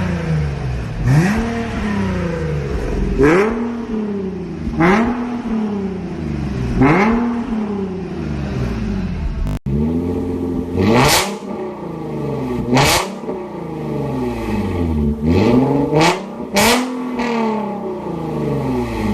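Nissan 370Z's 3.7-litre V6 being free-revved again and again, each rev rising and falling back within about a second and a half, with sharp exhaust cracks near the top of several revs.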